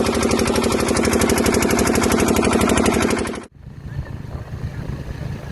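An engine running loud with a rapid, even knocking beat. It cuts off abruptly a little past halfway, and a quieter low hum with background noise follows.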